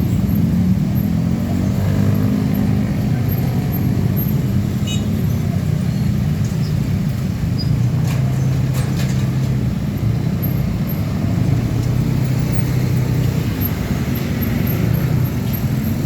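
Heavy diesel truck engine running on the road amid traffic: a steady low drone whose pitch shifts slightly as it goes.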